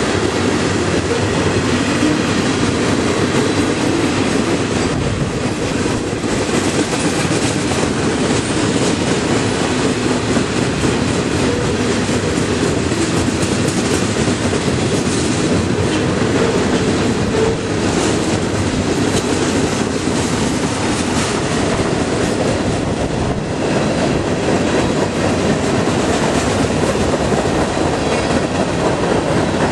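Freight train of tank cars and loaded centerbeam flatcars rolling past: a steady, loud rumble of the wheels on the rails with clickety-clack over the rail joints.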